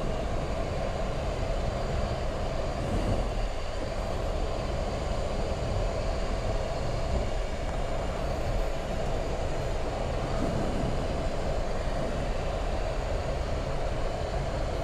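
Steady cockpit noise of a Boeing 737 MAX 8 taxiing with both CFM LEAP-1B engines at idle, with an even rush of air and engine hum that holds level throughout.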